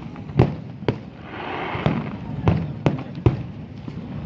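A fireworks display: shells bursting with sharp bangs, about eight in four seconds, over a continuous rumble, with a crackling hiss swelling for a moment about a second in.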